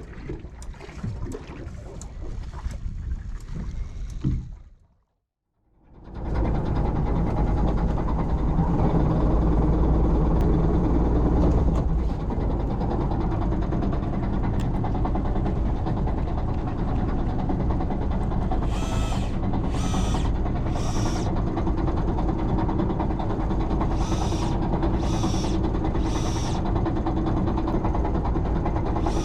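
A boat's engine running steadily while under way, with water noise over it. In the second half, two sets of three short high-pitched bursts about a second apart sound over it.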